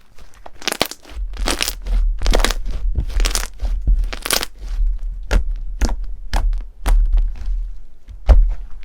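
Crunchy slime being pressed and squeezed. First come four longer crunches about a second apart, then a run of short, sharp crackles and pops.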